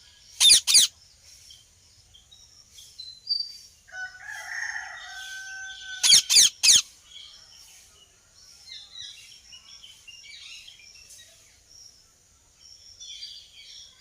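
Indian ringneck parrots giving short, loud, harsh screeches: a pair about half a second in and a quick run of three about six seconds in. Between them is a drawn-out lower bird call lasting about two seconds. Other birds chirp throughout.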